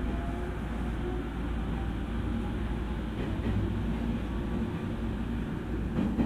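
Interior running sound of a JR East E231 series electric train: a steady rumble of wheels on rail, with a faint rising whine from the traction motors in the first few seconds. A few short rail-joint clicks come near the end.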